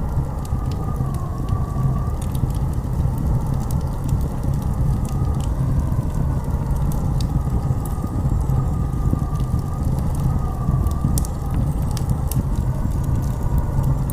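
Blizzard wind howling: a steady low rush with a whistling tone that slowly rises and falls, and scattered faint crackles over it.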